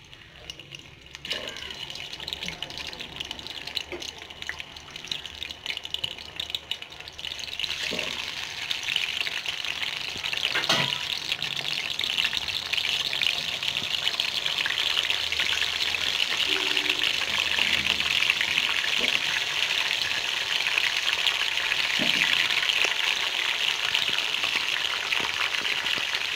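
Chicken pieces sizzling as they deep-fry in hot sunflower oil in an iron kadai; the sizzle grows louder from about seven seconds in as more pieces go into the oil. A few short knocks sound as pieces are added.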